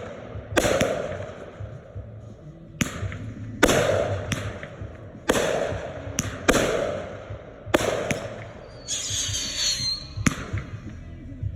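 Red Apple consumer firework mortar shells bursting: about ten sharp bangs, each with an echoing tail, at irregular intervals of roughly a second. A crackling burst comes about nine seconds in.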